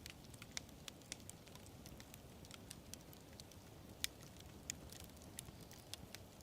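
Campfire burning with a low, soft rumble and irregular crackles and pops of burning wood, the sharpest pop about four seconds in.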